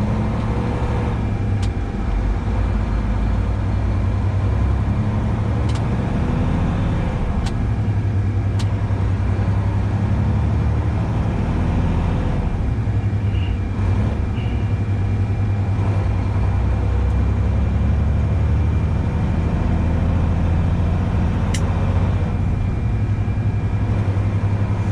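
Steady low drone of a grain truck's diesel engine, heard from inside the cab, with a few faint ticks.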